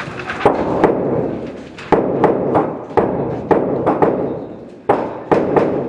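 Gunfire at a shooting range: about a dozen sharp shots at uneven spacing, some in quick pairs, each trailing off in echo.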